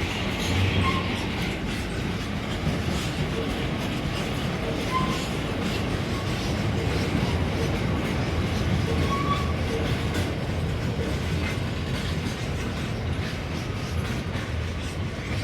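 A train running along the track with a steady rumble and wheels clacking over the rail joints, with a few brief faint wheel squeals.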